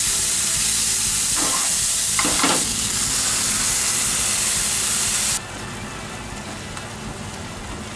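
Sausage and vegetables frying with ketchup in a non-stick frying pan, sizzling loudly as a spatula stirs them. About five seconds in, the sizzle drops suddenly to a quieter, duller bubbling.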